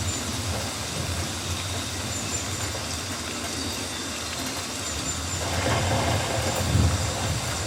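Rainforest rain ambience: a steady hiss of rain over a constant low rumble, with faint high chirps. The sound swells briefly about five and a half seconds in.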